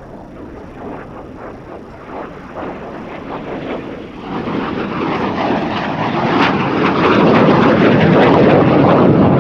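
Mikoyan-Gurevich MiG-17F jet fighter making a fast pass, its engine noise growing steadily louder as it approaches and loudest near the end.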